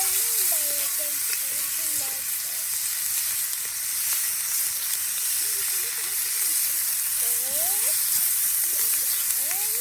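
Food sizzling and frying steadily in a skillet over a campfire, an even crackling hiss, with faint wavering whistling tones here and there.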